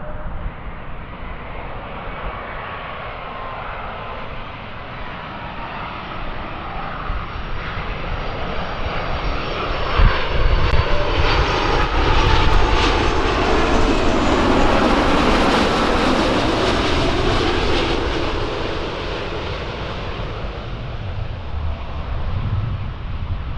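Jet airliner passing close by: the engine noise swells to a peak about halfway through, with a high whine on top, then fades away.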